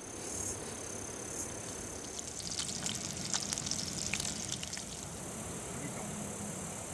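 Fast-flowing mountain river water rushing steadily, with a scatter of sharp ticks in the middle.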